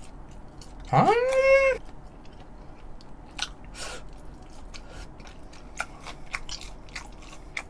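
Close-up chewing of a sauce-dipped piece of batter-fried squid, with small crunches and wet mouth clicks. About a second in comes a short voiced exclamation that rises in pitch and then holds.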